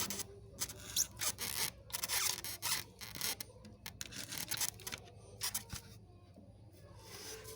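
Handling noise from pinning insect wings on a spreading board: irregular short scratchy rustles of paper and small clicks of pins, thinning out near the end.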